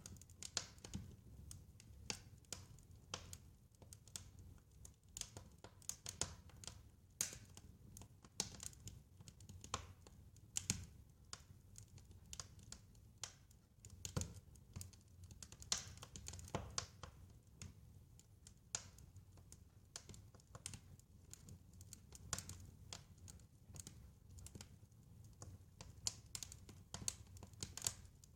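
Wood fire crackling, with irregular sharp pops and snaps over a faint low rumble of the flames.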